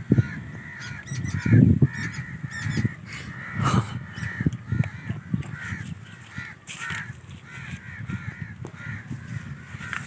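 Birds calling in the tree canopy: a steady chorus of short, repeated calls, many overlapping. A few low thumps sound among them, the loudest about one and a half seconds in.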